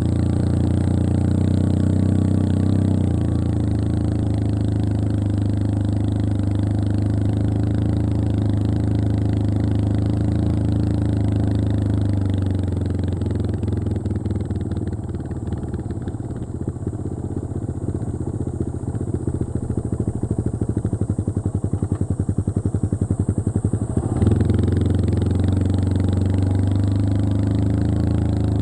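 Yamaha XT225 Serow's air-cooled single-cylinder four-stroke engine running on the move. About halfway through, the revs fall to a slower beat whose separate firing pulses can be heard, and the sound grows duller. Near the end the engine picks back up abruptly to a fuller note.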